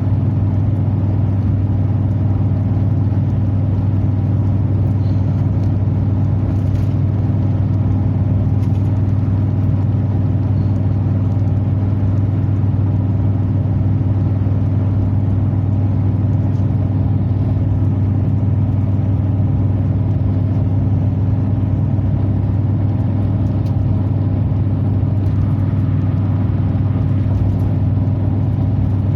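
Exhaust drone of a 2003 Chevy Silverado 2500HD with a Flowfx exhaust, heard inside the cab with the windows up, cruising at a steady speed. A steady low hum that holds one pitch throughout, with no acceleration.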